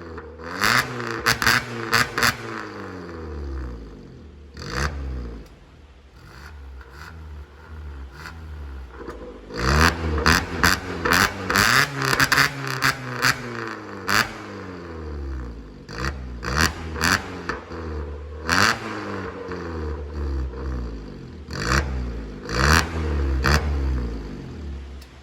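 Opel Astra engine with a downpipe exhaust being revved repeatedly in free rev, each rev rising and then falling away, with sharp cracks from the exhaust around the rev peaks.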